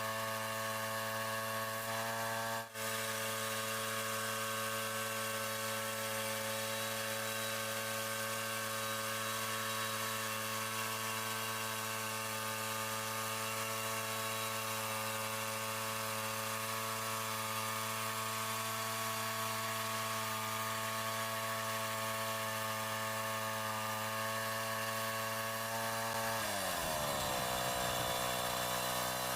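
Bandsaw sawmill's engine running at a steady speed. About 26 seconds in its pitch drops sharply and stays lower, while the sound gets slightly louder.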